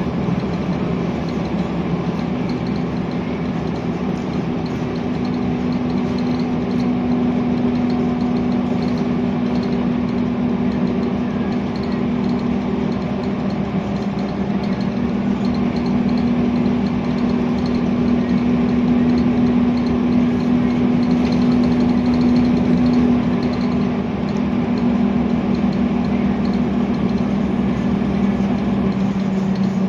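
Scania L94UB bus diesel engine running with a steady low drone at an even pitch. One of its tones drops away near the end.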